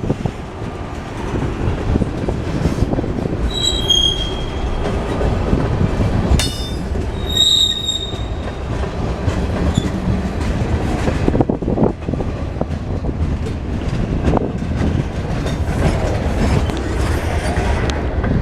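Freight train cars rolling past with a steady rumble, broken by short high-pitched wheel squeals about four and seven seconds in and a sharp clack between them.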